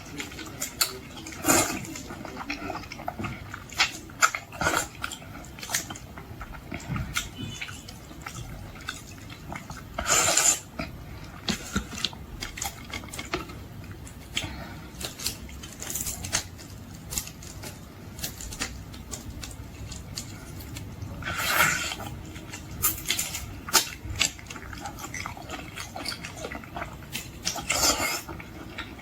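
Close-miked mukbang eating sounds: wet chewing and lip-smacking on boiled shrimp, with many small clicks and three longer, noisier bursts spread through.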